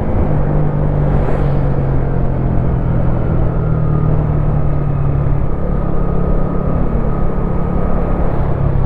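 Wolf Classic 125cc motorcycle engine running at a steady note while riding, over a steady low rumble.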